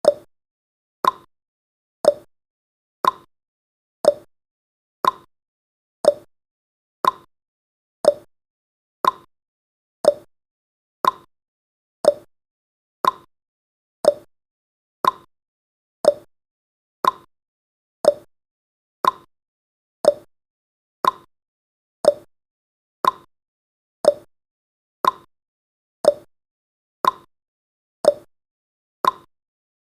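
Clock tick-tock sound effect of a countdown timer: one short click every second, alternating between a higher tick and a lower tock.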